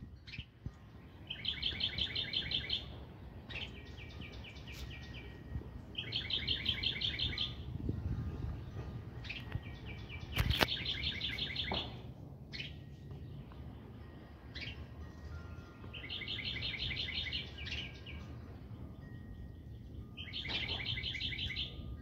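A songbird repeats a fast trilled song phrase, each about a second and a half long, five times at intervals of four to five seconds, with fainter bird notes in between. A single sharp click comes about halfway through.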